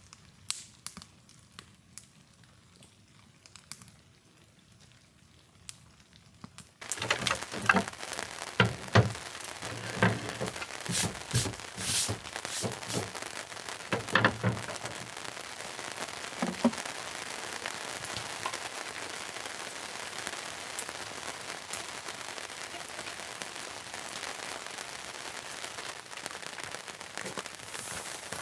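Rain: faint scattered drips at first, then about seven seconds in a sudden change to steady falling rain with many sharp drops, crackles and pops.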